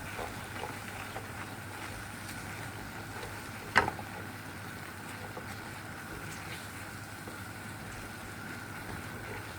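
A steady rushing noise with a faint hum as an onion, flour and milk sauce cooks in a non-stick pan, with a single sharp knock about four seconds in from a utensil striking the pan.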